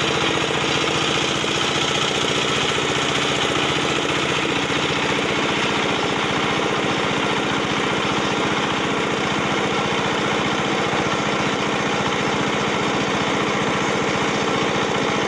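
Concrete cutter's single-cylinder petrol engine running steadily at an even speed.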